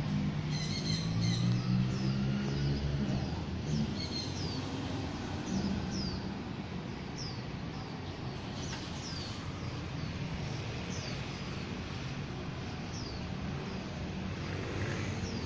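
A bird calling over and over, short high chirps that slide downward, roughly one a second, over steady outdoor background noise. A low engine hum sounds in the first three seconds.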